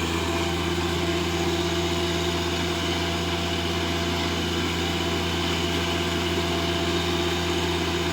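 Tractor engine running steadily while it pulls a tiller through the ground.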